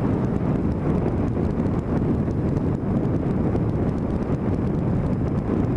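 Steady wind rushing and buffeting over the microphone of a camera mounted on a moving vehicle, with a constant low rumble of travel underneath.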